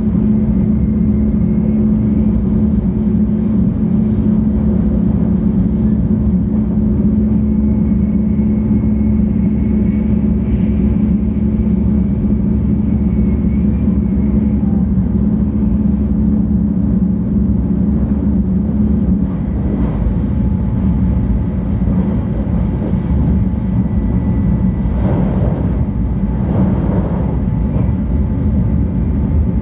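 Cabin noise inside a 700 Series Shinkansen running at speed: a steady low rumble with a constant hum. In the last third there are a few brief swells of noise, about 25 and 27 seconds in.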